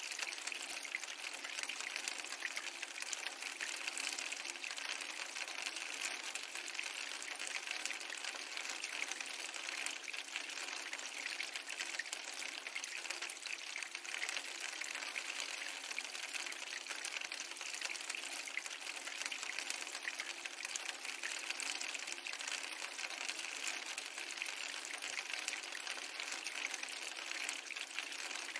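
Steady, even hiss of falling rain, the water layer of a fireplace, rain and ocean ambience mix.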